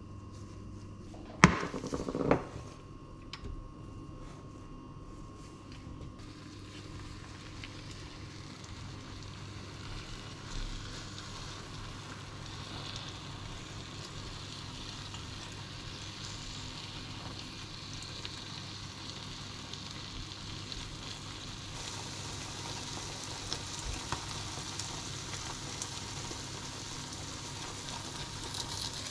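A short clatter about a second and a half in, then grated mozzarella and a spinach-and-egg mixture sizzling in a frying pan. The sizzle grows louder toward the end.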